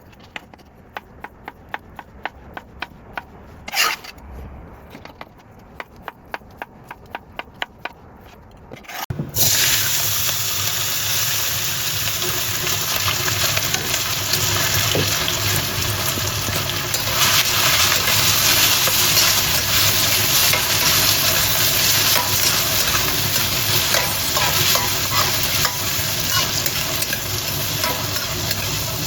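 A string of light clicks, a few each second, then about nine seconds in a sudden loud sizzle as food meets a hot wok. Steady sizzling and stir-frying of peas and diced cured ham follow.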